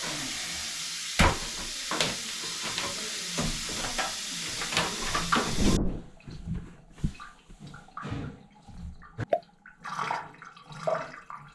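Water running into a bathroom drain, with scattered clicks and knocks. The running water cuts off abruptly about six seconds in, leaving sparse clicks and small knocks.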